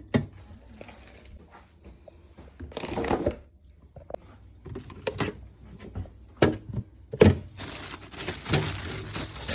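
Clatter of items being handled while a fridge is cleaned out: scattered knocks and clicks, a short scraping rustle about three seconds in, and near the end a steady hiss, like running water or spray, starts and continues.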